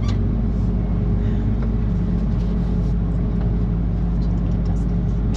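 Combine harvester running steadily while harvesting soybeans, heard from inside the cab: an even, unbroken low drone with a steady hum.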